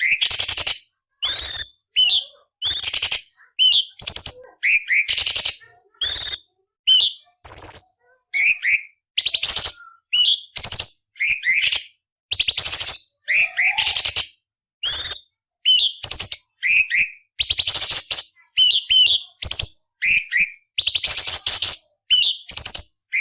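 Cucak cungkok (orange-bellied leafbird) singing: a steady run of short, harsh rasping phrases mixed with quick slurred whistled notes, about one a second, with brief silences between them.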